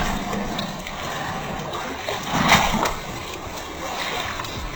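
Water splashing and running, with louder surges at the start and about halfway through.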